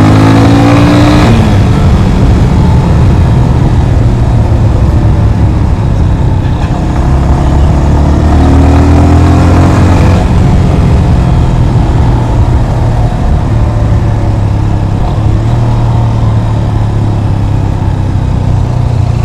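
Yamaha FZ25's single-cylinder engine running under way, with a heavy steady low rumble. Its pitch rises at the very start and again about eight to ten seconds in as the bike accelerates.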